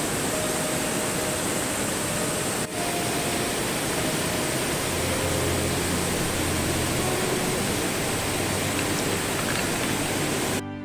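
Steady rush of flowing river water, with a brief break about three seconds in.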